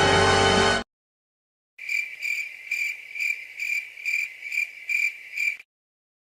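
Music cuts off under a second in, then after a short silence a cricket chirps, a high pulsing trill about twice a second for several seconds that stops abruptly: the stock 'crickets' effect used to mark an awkward silence.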